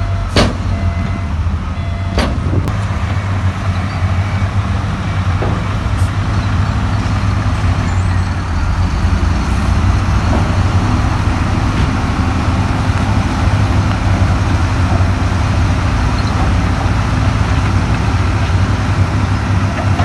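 Heavy diesel earthmoving machinery, a bulldozer or dump truck, running steadily under load with a deep engine drone. A sharp metallic knock comes about half a second in, with a few fainter knocks after it.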